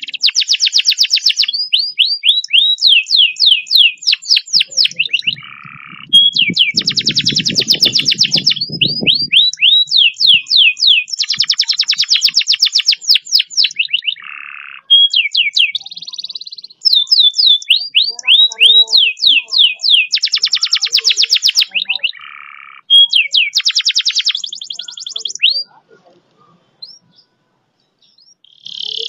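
Domestic canary singing long, fast rolling trills of rapidly repeated notes, in phrases broken by short pauses. A low rumbling noise sits under the song for a couple of seconds about seven seconds in. The song stops a few seconds before the end.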